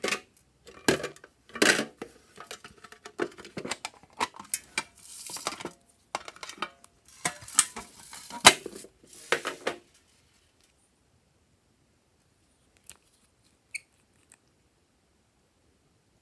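Slime-making handling noises: a dense run of clicks, knocks and crackles for about ten seconds, then quiet with a few faint clicks near the end.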